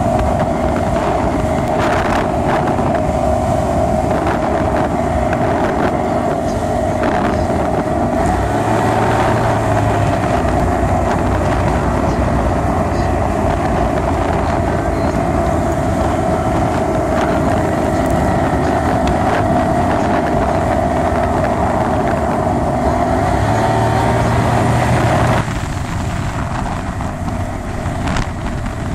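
1976 Mercury Black Max 175 two-stroke outboard running hard at high speed, a steady high-pitched drone with wind rushing over the microphone. About 25 seconds in the sound drops suddenly and the pitched note falls away.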